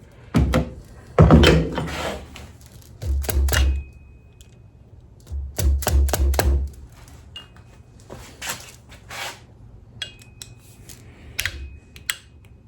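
Metal tools and fork parts being handled and tapped: an uneven run of clicks, knocks and clinks, with two short spells of low thudding.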